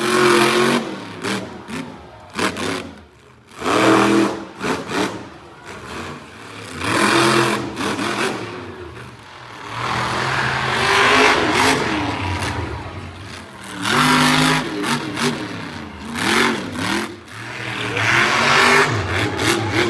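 Monster truck engine revving hard in repeated surges, its pitch rising and falling with each stab of the throttle.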